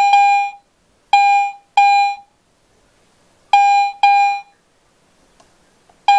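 Garrett AT Pro metal detector sounding its target tone, a clear buzzy beep at one steady pitch, repeated about six times in short pairs as the coil passes over metal and picks it up.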